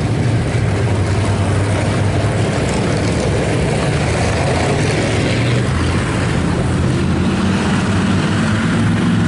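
A pack of IMCA Hobby Stock race cars' engines running at a low, steady pace under caution, their pitch shifting a little as the cars circle.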